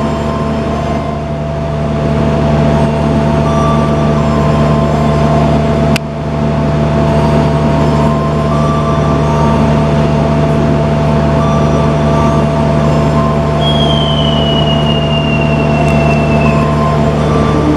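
Passenger train running: a steady low drone with rail and wheel noise, a sharp click about six seconds in, and a high squeal slowly falling in pitch near the end.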